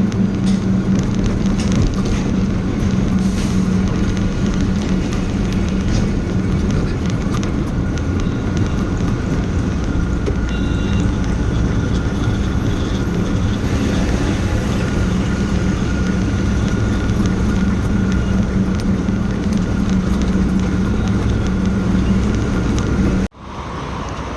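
Heavy diesel truck engine running steadily, with a constant low hum over dense mechanical and road noise. The sound cuts out abruptly near the end, then comes back quieter.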